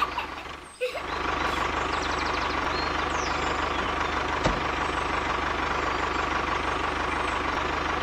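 Tractor engine running steadily, with a low even pulse and a steady whine, for the moving toy tractor; it drops out briefly just under a second in, then resumes, with a single click about four and a half seconds in.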